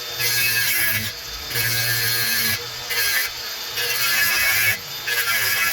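Power saw cutting into a wall, run in several bursts of about a second each with short pauses between.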